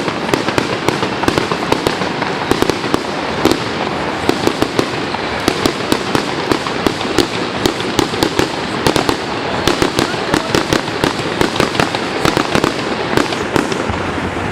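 Fireworks crackling and popping: a dense, irregular run of sharp cracks, several a second, over a steady noisy hiss.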